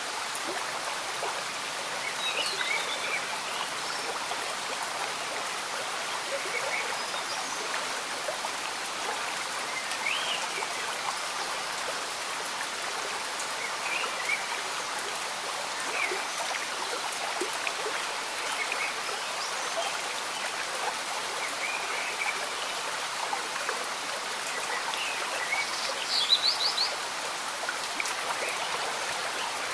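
Gentle rain falling and a slow stream bubbling, an even wash of water noise with scattered short high plinks. A brief louder cluster of them comes near the end.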